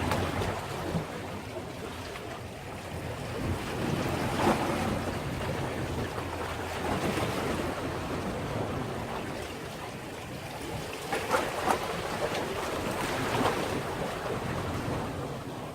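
Sea waves washing against a breakwater, swelling and easing, with a few sharper splashes, about four and a half seconds in and three more between eleven and fourteen seconds in. Wind buffets the microphone throughout.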